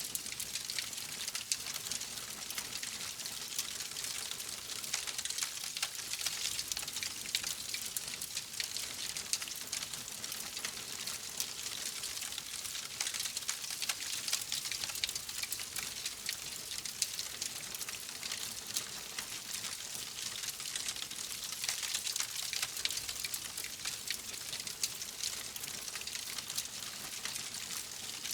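Wood fire crackling steadily: a dense, even patter of small snaps and pops over a soft hiss.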